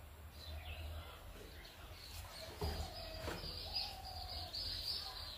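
Faint bird chirping in the background over a low hum, with a couple of soft clicks about three seconds in.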